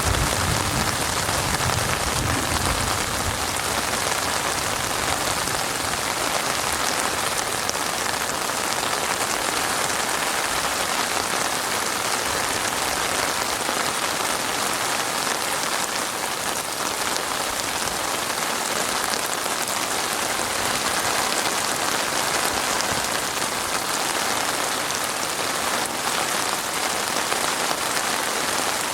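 Heavy rain falling steadily on a surface, a dense even hiss of many drops with no let-up. A faint low rumble sits under it in the first few seconds.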